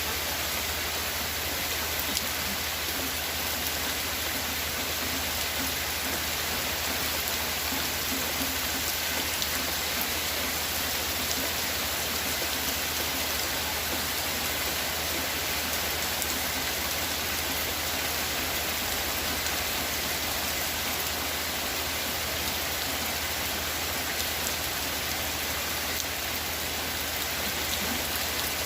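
Steady rain falling and pattering on surfaces, an even hiss with a few scattered drop ticks.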